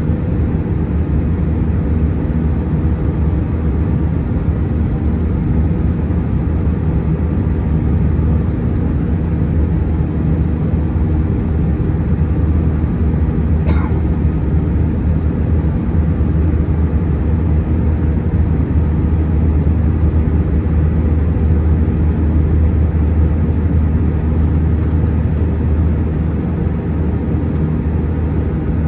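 Steady low drone of an Airbus A320-211's CFM56 engines and airflow, heard inside the passenger cabin, with a brief faint click about halfway through.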